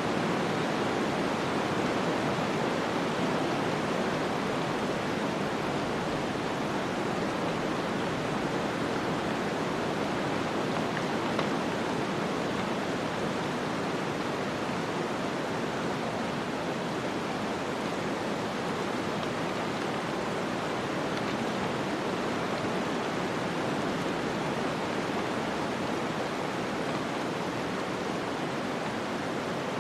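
Snowstorm ambience: a steady, even noise of wind and blowing snow, with no gusts, clicks or separate events.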